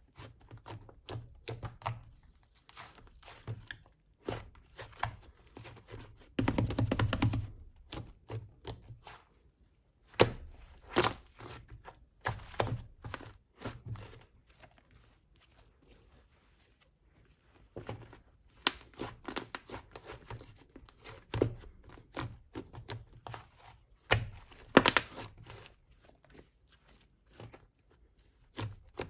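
Slime being pressed, poked and stretched by hand, making irregular crackly clicks and pops, with a denser, louder run of crackling about six seconds in.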